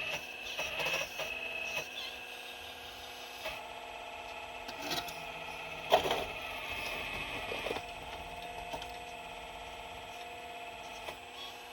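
Excavator's motor and hydraulics whining steadily, with a few sharp knocks of rock against the bucket; the loudest knock comes about six seconds in.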